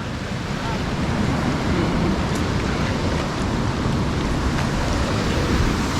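Creek rapids rushing, a steady, even noise of fast-flowing water.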